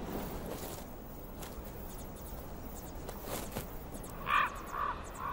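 Outdoor background with faint rustling, then about four seconds in a bird starts a series of short, harsh calls, about two a second, the first one the loudest.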